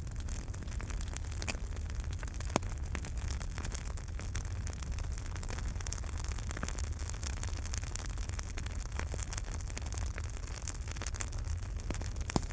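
Wood fire burning in a fireplace: a steady low rumble with constant fine crackling and a few sharper pops, one about two and a half seconds in and another near the end.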